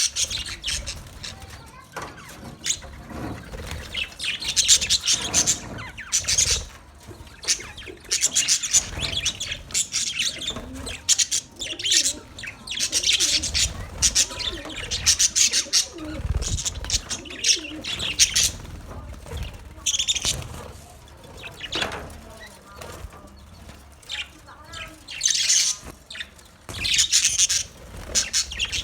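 A colony of budgerigars chirping and chattering in repeated bursts of high, busy calls, with a few low thumps mixed in.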